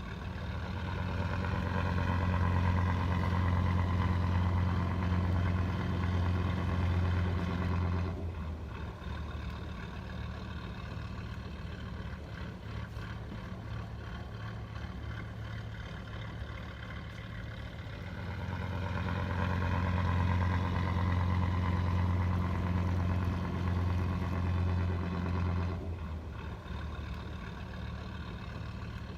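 A remote-control toy vehicle running with a steady low engine-like drone that swells louder twice, for about eight seconds each time, and drops back to a quieter steady run between.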